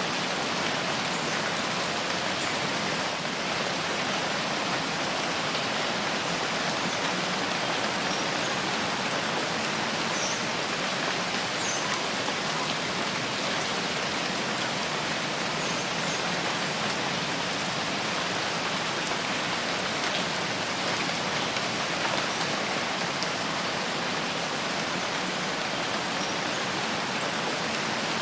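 Steady rain falling in a forest, an even hiss of drops on leaves and ground with no change in strength.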